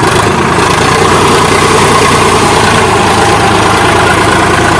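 Sonalika DI 47 tractor's diesel engine running loudly and steadily while driving a rotavator, coming in sharply right at the start.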